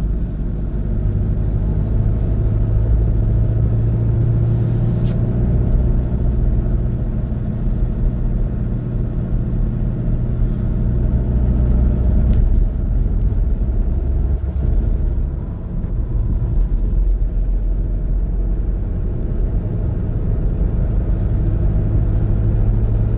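A car driving, with a steady low rumble of engine and road noise and a constant low hum; the hum fades briefly about fifteen seconds in, then returns.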